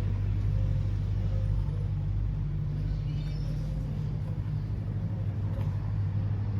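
Honda VFR800F's 782 cc V4 engine idling steadily, with no revving.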